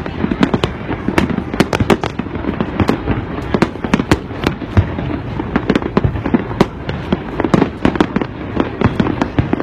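New Year fireworks display in full barrage: a dense, irregular run of sharp bangs, several a second, over a steady low rumble.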